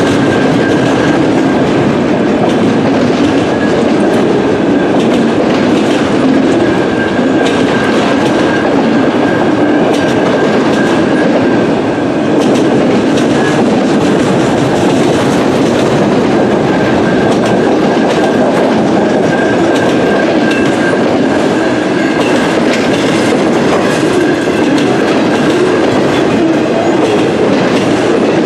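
Freight train of enclosed autorack cars rolling past: a steady loud rumble of steel wheels on rail with clickety-clack over the joints and a thin high ringing that comes and goes.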